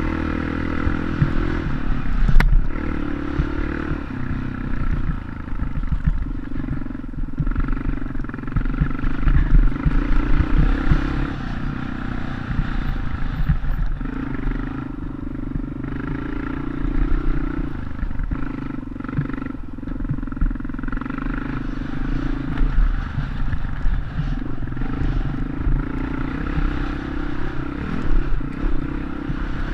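Dirt bike engine running at a fairly steady pitch, over uneven low rumbling and clatter.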